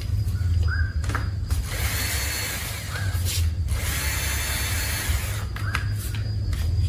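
A small electric motor or power tool whirring in two short spells of about a second each, with clicks and a ratcheting rattle over a steady low hum, during work on a broken hair dryer.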